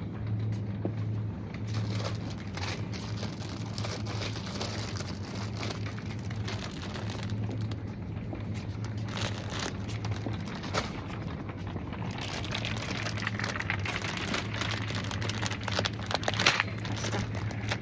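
Rustling and crinkling with scattered short clicks over a steady low hum, the hum typical of supermarket refrigeration.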